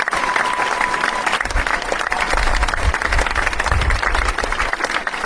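Crowd applauding: dense, steady clapping, with a thin steady tone heard through it for about the first second.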